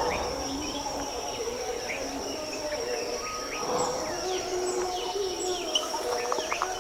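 Forest ambience: a steady high insect drone with many short, quick bird chirps scattered over it.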